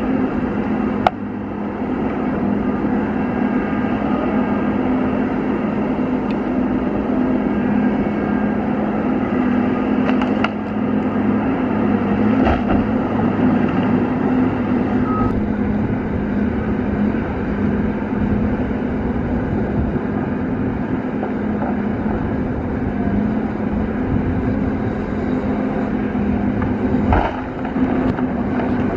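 Caterpillar 552 feller buncher's engine running steadily under work, with a few sharp knocks now and then.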